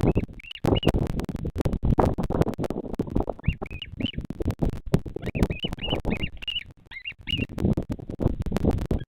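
A bird chirping in quick runs of three to five short, high, rise-and-fall notes. Behind it, wind buffets the microphone with a heavy uneven rumble and crackle.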